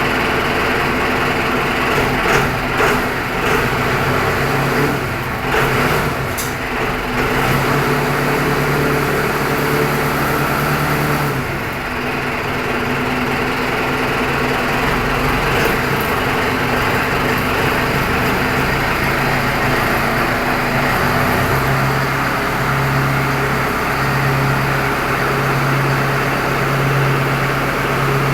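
Small engine driving a pump, running steadily on a test run. There are a few sharp knocks in the first several seconds, the note shifts about halfway through, and a low hum pulses evenly near the end.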